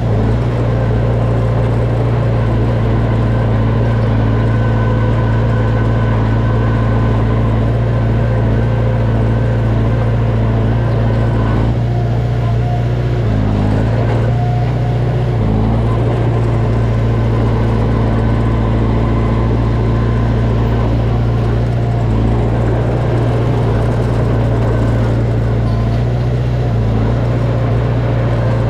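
Heavy-equipment diesel engine running steadily under work. About halfway through its pitch drops briefly, then recovers.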